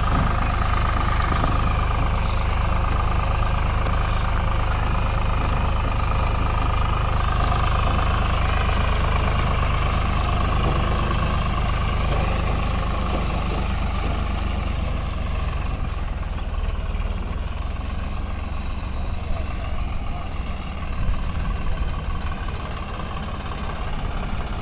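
Tractor engine running steadily, with a deep rumble and a whine that drifts slightly lower in pitch over the first half; the sound eases a little in the second half.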